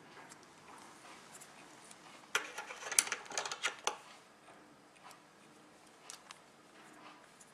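A burst of rapid, sharp clicks and crackles lasting about a second and a half, a couple of seconds in, over faint steady hiss, with a few lone clicks later.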